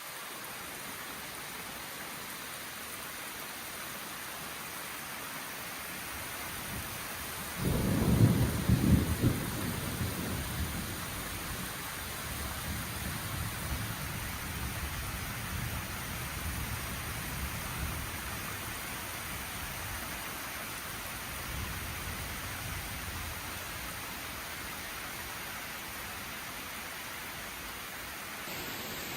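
Steady rain hissing, with a loud low rumble breaking in about eight seconds in that fades away over the next ten seconds.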